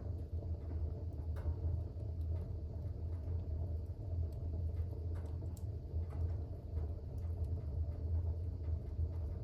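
Fire burning in a fireplace: a steady low rumble of the flames with a few faint crackles here and there.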